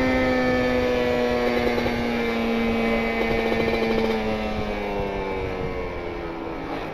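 Kawasaki Ninja RR's two-stroke single, running a rich carburettor setting through an R9 exhaust, with the revs sliding slowly and steadily down over several seconds as the bike rolls off the throttle. Wind and road rumble run underneath, and the sound grows quieter toward the end.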